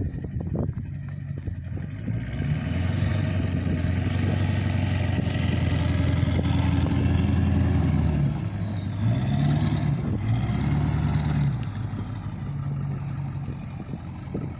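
2000 Ford F-350 truck's engine running, its pitch rising about two seconds in and holding, dropping briefly, rising once more, then settling back down near the end.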